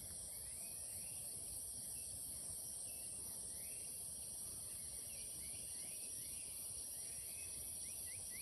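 Steady high-pitched chorus of insects in vegetation. Over it, short rising chirps repeat every second or so and come faster near the end.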